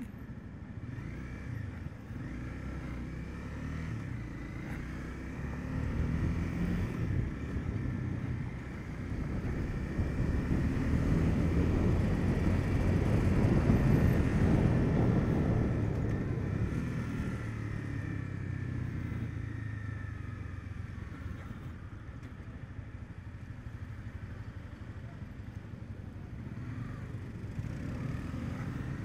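Honda CB300F's single-cylinder engine running under way, its pitch rising and falling with the throttle. The engine and road noise swell to their loudest about halfway through and then ease off.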